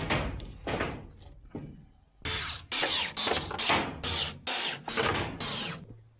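A quick, irregular series of about a dozen sharp knocks and bangs, coming closer together in the second half and stopping near the end.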